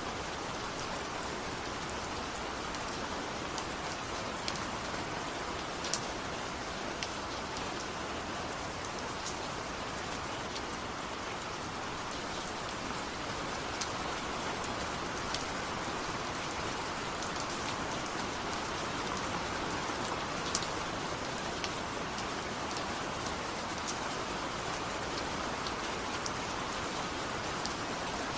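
Steady rain falling, with scattered sharp drops ticking through the constant patter.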